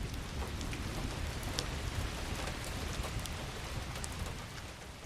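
Steady rain falling, with scattered drops tapping close by; it eases down near the end.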